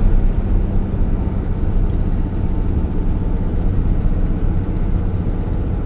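Truck engine and road noise heard from inside the cab while driving: a steady low hum at constant speed.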